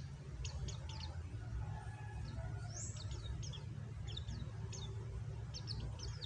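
Pleci (white-eye, Zosterops) giving clusters of short, quick high chirps over a steady low rumble.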